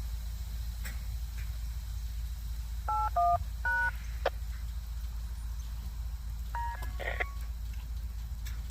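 Touch-tone (DTMF) beeps on a two-way radio channel: three short two-tone beeps about three seconds in, then another brief burst of tones about a second before the end, over a steady low hum.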